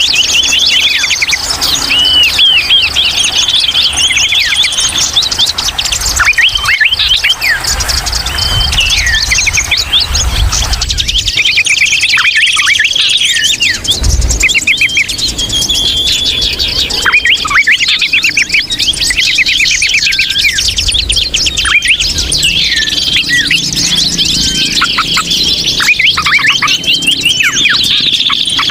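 Many small birds chattering and chirping at once in a dense, unbroken flurry of short, high, overlapping calls and trills: the noisy 'ribut ngeriwik' kind of call used as a lure to draw in wild birds.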